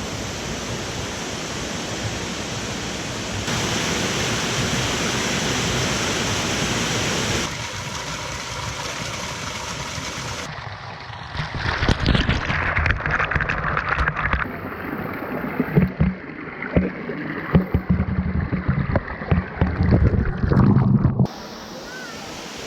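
Rushing water of a mountain stream and its cascades, a steady hiss that changes abruptly several times between shots. About ten seconds in it becomes a closer, duller rush broken by irregular heavy low thumps, which stop suddenly near the end.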